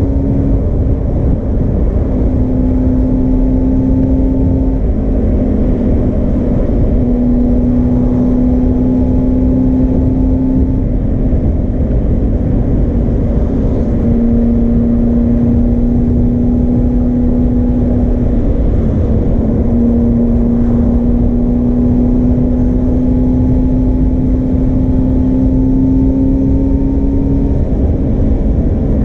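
Suzuki GSR400's four-cylinder engine through a Yoshimura Cyclone Tri-Oval exhaust, running steadily under way. Its drone rises slowly in pitch and drops back every few seconds, over a constant rush of noise.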